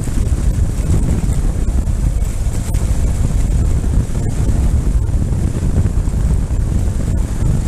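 Ural boxer-twin motorcycle riding at road speed: a steady low engine rumble, largely buried under heavy wind buffeting on the microphone.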